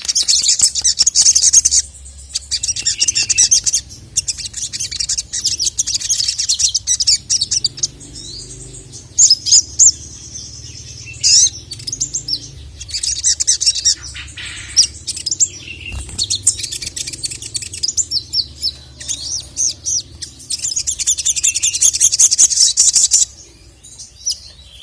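Sogon (sogok ontong, little spiderhunter) singing: long runs of rapid, high-pitched trills, each lasting a few seconds, broken by gaps filled with sharp single chips. The longest trill comes near the end.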